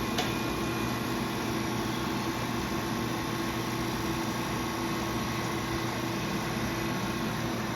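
Steady hum of laser cutter equipment, its fans and air pump, running on after the cut, with one faint click just after the start.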